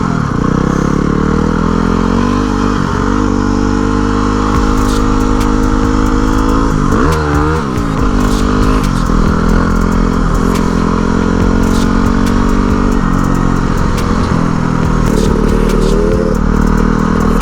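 Dual-sport motorcycle engine running while riding, its pitch rising and falling with the throttle and dipping sharply and recovering about seven seconds in. Scattered light ticks sound over the engine.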